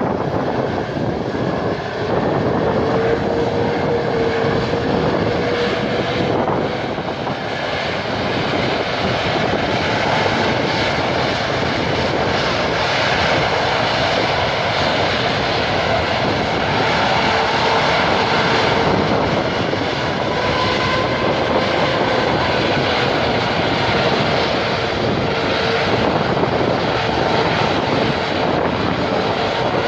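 Boeing 787-9 jet engines running at high power during a thrust reverser test: a steady jet roar with a whine that wavers and climbs in pitch near the end.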